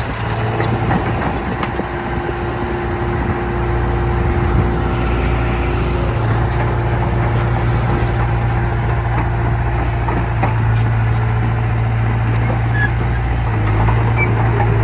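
Heavy diesel engine running steadily at a fairly even speed, getting a little louder about four seconds in.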